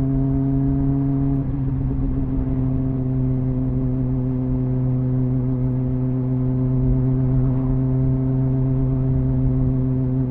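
Triumph Speed Four's 600cc inline-four engine on its stock exhaust, running at a steady cruising speed while the bike is ridden. Its pitch dips slightly about a second and a half in, then holds even.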